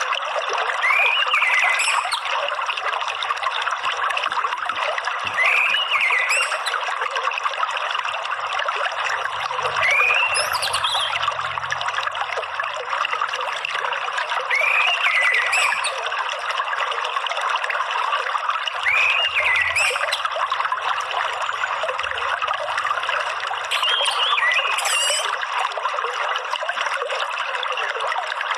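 Steady trickling water, like a small stream or fountain. Short rising bird chirps repeat over it about every four to five seconds.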